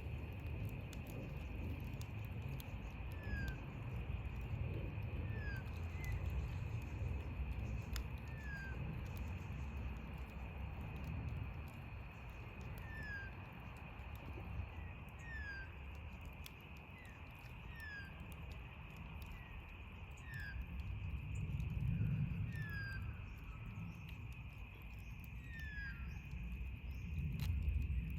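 Outdoor campfire crackling with scattered sharp pops over a low rumble, while a bird repeats short downward-sliding chirps every second or two. A steady high-pitched drone runs underneath.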